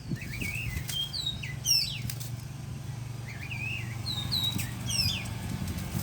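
Small birds chirping in quick clusters of short, high, sweeping notes over a steady low hum.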